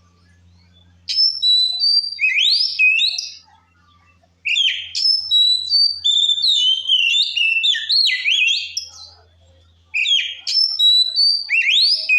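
Oriental magpie-robin (kacer) singing a loud, varied song of whistled glides and quick trills in three bouts with short pauses between. This is the full-voiced 'ngeplong' song used as a lure to provoke rival males.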